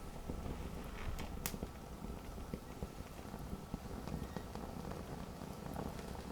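Campfire burning: a low steady rumble of flames with scattered sharp crackles and pops of burning wood, the loudest about a second and a half in.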